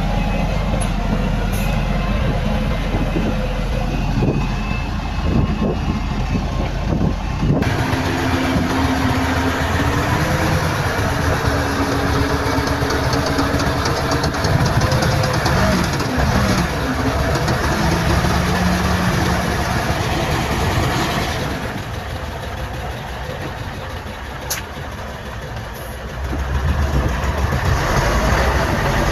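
Heavy earthmoving machinery at work: a bulldozer's and dump trucks' diesel engines running steadily. The sound changes abruptly about 8 seconds in and again near 22 and 26 seconds, at cuts between shots.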